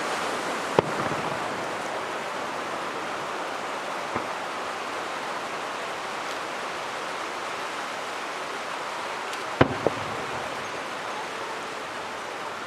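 Fireworks display: sharp bangs of shells bursting, one about a second in, a faint one around four seconds, and two in quick succession near ten seconds, over a steady rain-like hiss.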